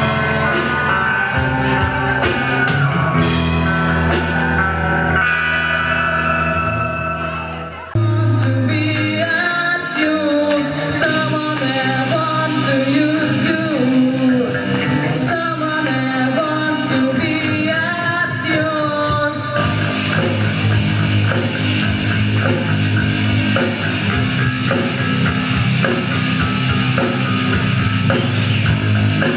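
Live rock band playing, with guitar chords at first. After a short dip about eight seconds in, a sung melody comes over the band, and near twenty seconds the whole band comes in fuller and harder.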